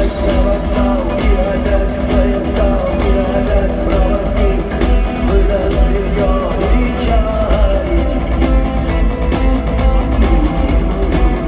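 Rock band playing live, with electric guitar to the fore over bass and drums and a voice singing.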